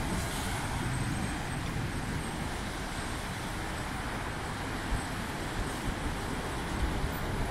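Heavy rain falling on a city street with road traffic running, a steady wash of noise over a low rumble.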